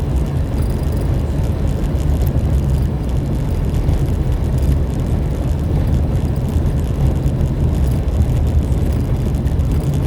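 Steady low rumble of a vehicle on the move: engine and road noise, even throughout with no distinct events.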